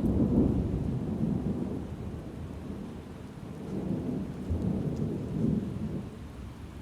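Thunder rumbling over rain: a loud roll at the start that eases off, then a second swell about five seconds in before it dies away.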